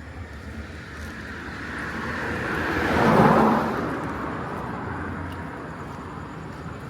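A motor vehicle driving past on the street: its engine and tyre noise swells to a peak about three seconds in, then fades away.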